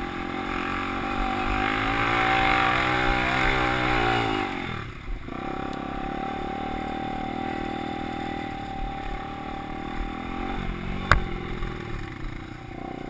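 Motocross bike engine revving, loudest in the first four seconds as its pitch climbs and then falls away, dropping off about five seconds in and then running steadily. A single sharp click about eleven seconds in.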